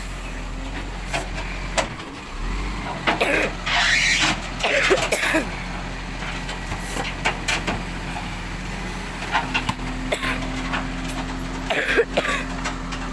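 Waste collection truck's engine running steadily, with scattered knocks and clatter over it.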